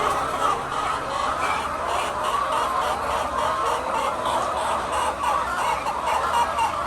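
A flock of laying hens clucking, many calls overlapping into a steady chatter.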